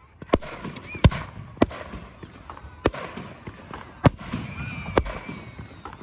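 Aerial firework shells bursting: six sharp bangs about a second apart, with crackling and a brief whistle between them.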